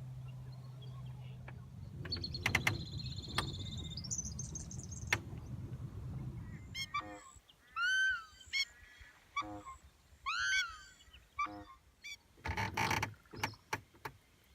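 Birds calling: high twittering chirps in the first half, then several short, arching, honk-like calls, the loudest near the end. Under the first half runs a low hum and then a low rumble that stops about seven seconds in.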